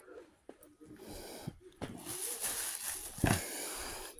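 A pet eating food it has just been handed, with a hissing, snuffling noise building from about halfway in and one sharp knock about three seconds in.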